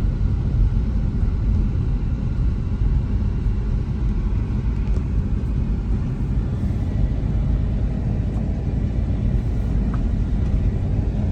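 Car driving along with a steady low rumble of engine and tyres on the road, heard from inside the cabin.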